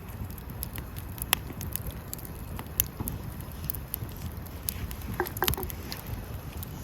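Wood fire crackling: scattered sharp pops and snaps over a low steady rumble of burning, the loudest pops about a second and a half in and near three seconds, with a short cluster of snaps near the end.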